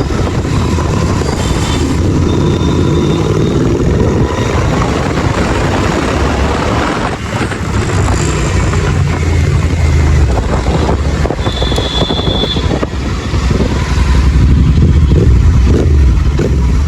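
Royal Enfield Continental GT 650's parallel-twin engine and exhaust running under way, the pitch climbing over the first few seconds as it accelerates. The engine eases off briefly twice, about seven and thirteen seconds in, then pulls again.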